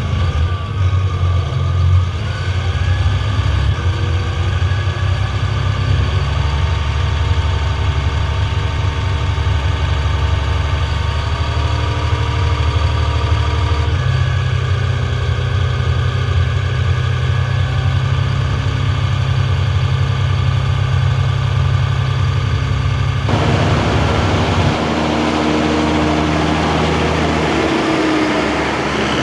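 John Deere 7230R tractor's six-cylinder diesel engine running steadily while pushing silage with a front blade. Its note changes in steps about halfway through and again near the end.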